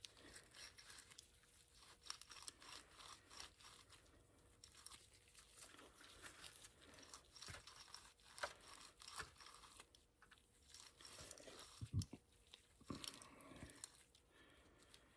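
Faint rubbing and small scratchy clicks of a rag wiping old grease out of bicycle ball bearings and their cup, with a couple of light knocks near the end.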